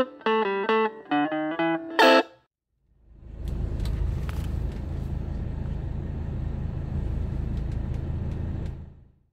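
Guitar music with plucked notes that stops about two seconds in. After a short gap, a car engine idling as a low, steady rumble until just before the end.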